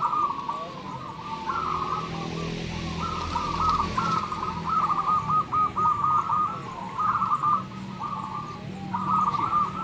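Several zebra doves (perkutut) cooing, their rhythmic, stuttering coo phrases following and overlapping one another without a break, over a low steady hum.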